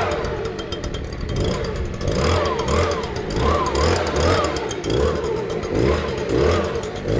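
Gas-powered leaf blower running, its pitch swelling and falling in a quick, regular rhythm, blowing excess joint sand and dust off a paver patio.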